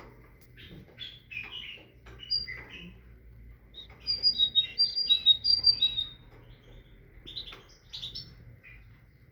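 Great tit singing: scattered short chirps, then about two seconds of loud, repeated two-note phrases, a higher note followed by a lower one, then a few more calls near the end.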